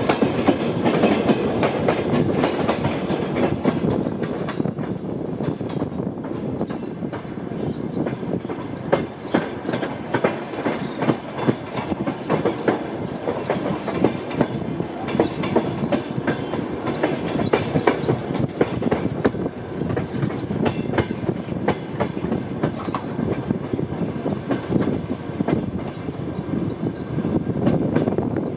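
Passenger train running at speed, heard from its own coach: a steady rumble with wheels clattering irregularly over rail joints and points.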